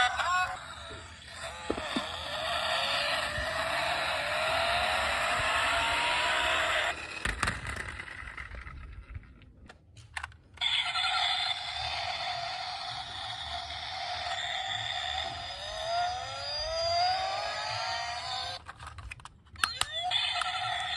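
Toy cars running: small motors whir steadily with rising whines as they speed up. The sound breaks off briefly twice.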